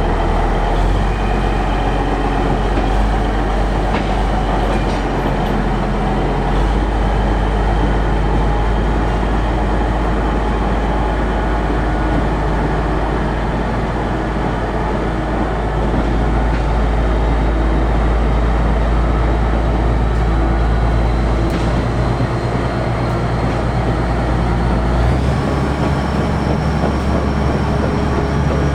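Steady, loud rumble of heavy machinery with several steady hums and a faint high whine. About 25 seconds in the low rumble changes and the whine steps up in pitch.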